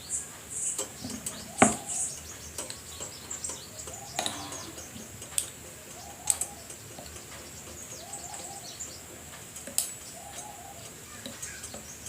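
Birds chirping, with a few faint cooing calls, and a handful of sharp taps of a knife cutting a rolled sheet of dough on a board.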